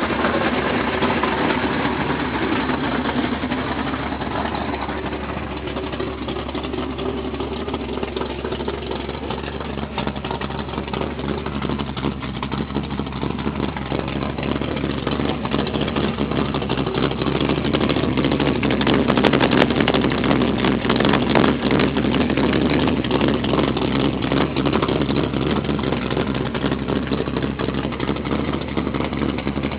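Plymouth Duster's engine running at a steady idle, growing a little louder about twenty seconds in.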